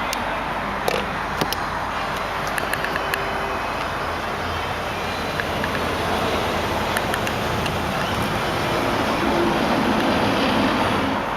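Steady road-traffic noise, growing louder for a few seconds near the end, with a few faint clicks.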